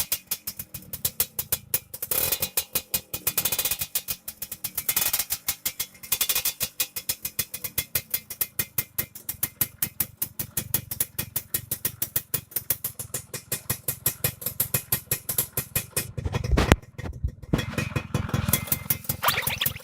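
Motorcycle engine running through a hand-hollowed (bobok), re-welded exhaust muffler, its exhaust pulses coming as a fast, even popping. The popping swells and fades every couple of seconds, with one louder burst about 17 seconds in.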